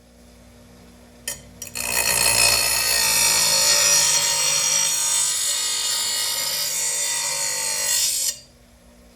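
Power tool grinding the edge of a steel lawn mower blade: two brief touches of the blade on the tool, then a steady grind for about six seconds that stops suddenly.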